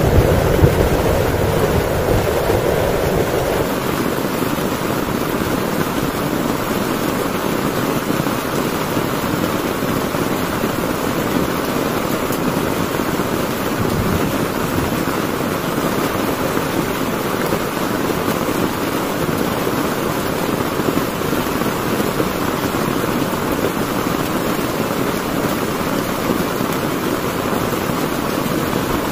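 Heavy rain drumming steadily on a tent. A low thunder rumble fades away over the first few seconds.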